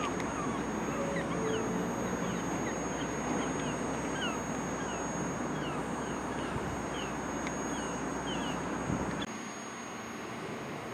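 Small birds chirping, many quick high notes a second or so apart, over a steady low rumble that drops away suddenly about nine seconds in.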